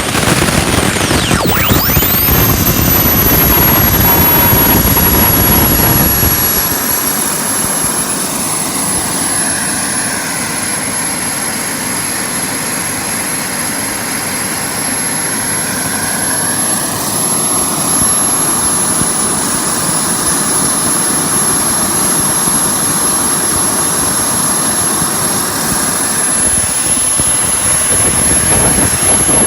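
Jet Central model turboprop turbine running, its propeller spinning, with a steady high-pitched turbine whine. A deep rumble underneath fades after about six seconds and comes back near the end.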